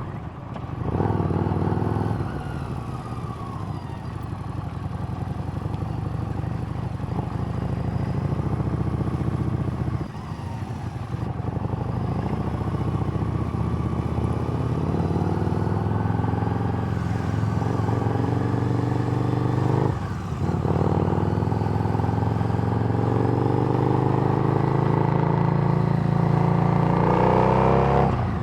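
Harley-Davidson Street Rod's V-twin running through a Screamin' Eagle exhaust while under way. The note drops out briefly twice, about ten seconds apart, as with a throttle lift for a gear change, then climbs in pitch near the end as the bike accelerates.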